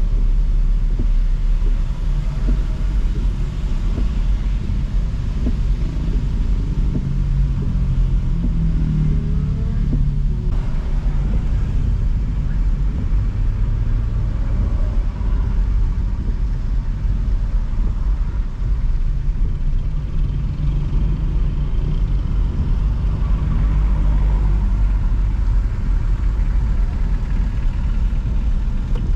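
Car driving in traffic: a steady low rumble of engine and road noise, with the engine note rising and falling a few times as it speeds up and slows.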